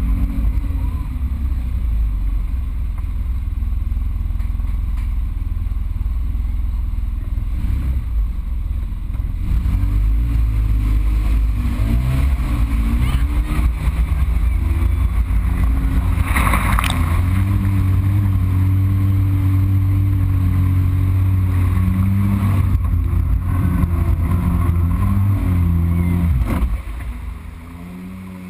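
Polaris RZR side-by-side engine revving and running under heavy load, with a short loud burst of noise about halfway through. Near the end the engine sound drops away sharply: the engine is ingesting water, which kills it.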